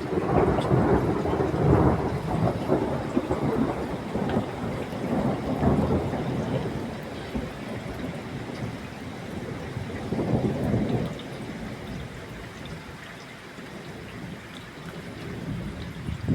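Thunder rumbling over steady rainfall, loudest in the first several seconds and swelling again about ten seconds in, then easing to rain alone.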